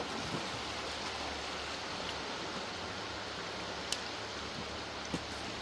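Creek water rushing steadily, with two faint clicks in the second half.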